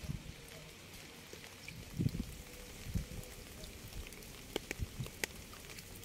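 Steady rain with scattered drops ticking sharply, and a few soft low thuds about two and three seconds in.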